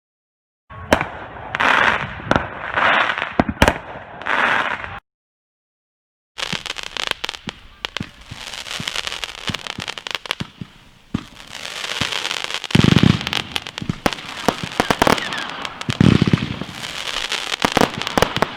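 New Year's Eve fireworks going off: dense crackling and popping with many sharp bangs, and two deeper booms about two-thirds and seven-eighths of the way through. The sound cuts out completely for over a second about five seconds in.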